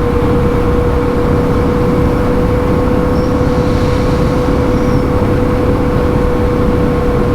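Suzuki DR650 single-cylinder engine running at a steady cruising speed, heard with a dense rush of wind and road noise from riding.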